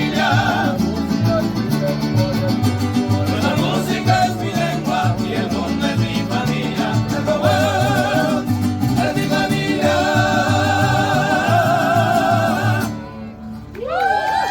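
Mariachi band playing and singing, with voices in harmony holding notes with vibrato over a steady bass line. The music drops off briefly near the end, then new held notes come in.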